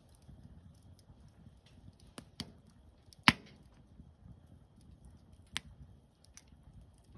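Wood fire crackling, with scattered sharp pops; the loudest pop comes about three seconds in.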